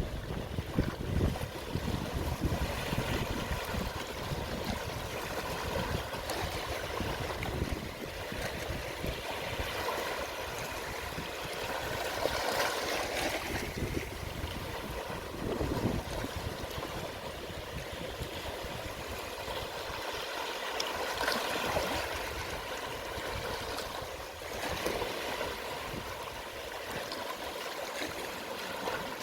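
Small, gentle sea waves washing onto the shore at low tide, a continuous fizz of water that swells softly every few seconds as each wave comes in, with a low rumble in the first couple of seconds.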